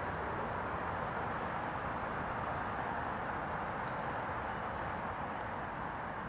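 Steady noise of passing motor traffic, easing off slightly towards the end.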